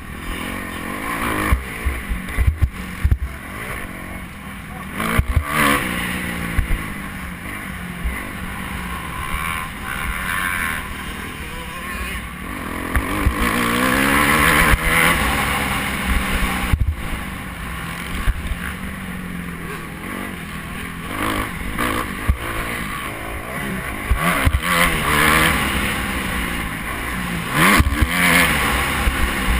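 Motocross bike engine revving hard and easing off again and again, its pitch climbing and dropping as it is ridden, with rumbling knocks underneath.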